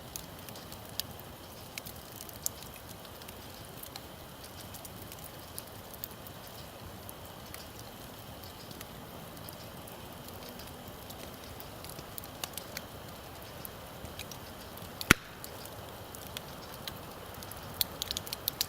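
Wood campfire crackling: a steady hiss of burning with scattered sharp pops, the loudest about fifteen seconds in and a quick run of pops near the end.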